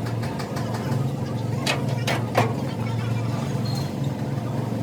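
A steady low engine hum, with three sharp metallic knocks in the middle, the last one the loudest.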